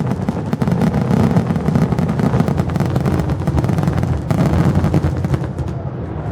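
Fireworks going off in a dense, rapid barrage of overlapping bangs and crackles over a continuous low rumble, thinning slightly near the end.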